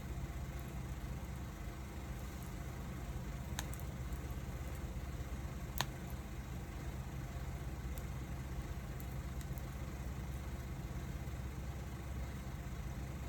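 Wood fire burning: a steady low rumble with several sharp crackles and pops of burning wood, the loudest about six seconds in.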